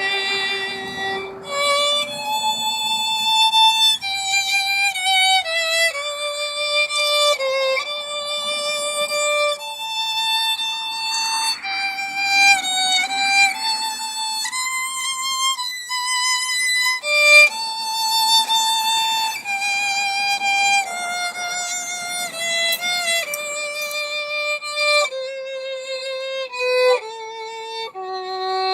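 Solo violin playing a slow melody of held notes with vibrato.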